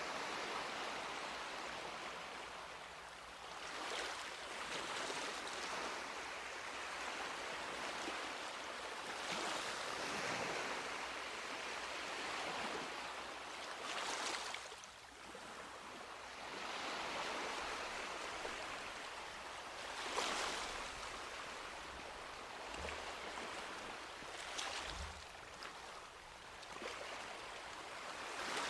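Sea waves breaking and washing up on a beach, each wave swelling and fading every four to six seconds over a steady hiss of surf.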